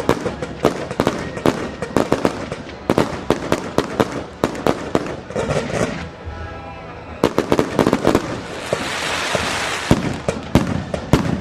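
Fireworks going off in a rapid barrage of sharp bangs and crackles. A short lull comes about six seconds in, then a rushing hiss around nine seconds before the bangs pick up again.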